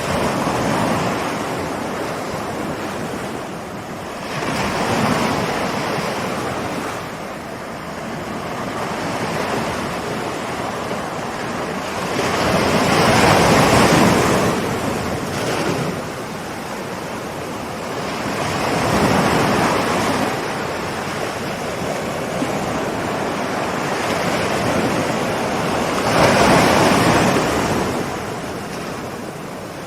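Ocean waves rolling in and breaking on the shore, a steady rush of surf that swells four times as waves break, loudest about halfway through and again near the end.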